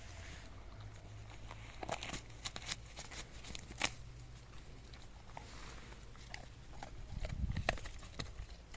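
A giant schnauzer chewing and crunching corn, with scattered sharp crunches and a louder low thump near the end.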